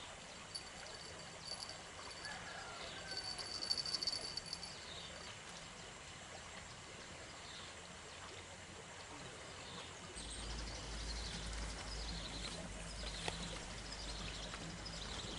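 Quiet outdoor ambience with faint bird calls: a few thin high calls in the first few seconds, then a string of short falling chirps. A low rumble joins about ten seconds in.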